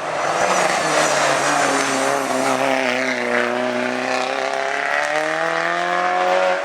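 Race car engine at high revs under acceleration, its pitch climbing steadily.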